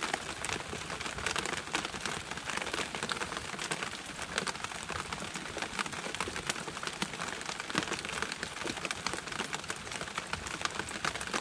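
Steady rain falling, with many separate drops ticking on a nearby surface.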